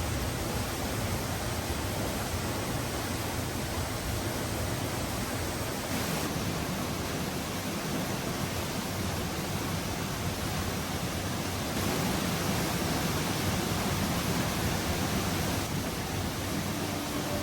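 Steinsdalsfossen, a waterfall about 50 m high, heard close up: the steady rush of falling water, its level stepping slightly about 6 and 12 seconds in.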